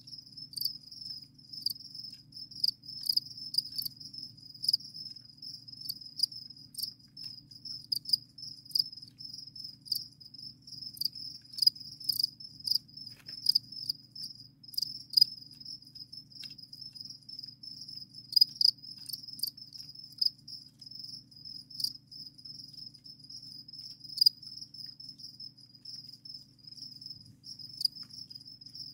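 Captive crickets chirping continuously, a steady high-pitched trill with louder individual chirps standing out every second or so.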